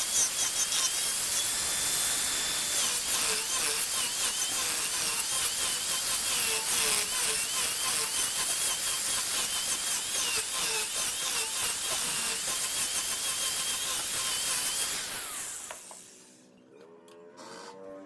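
Wood lathe turning, a cutting tool shearing the spinning wood: a steady hissing scrape with a wavering high squeal. It stops about 16 seconds in.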